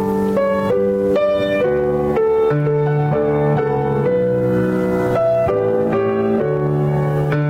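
Instrumental keyboard music: slow, steady chords held and changing about every half second, with no singing.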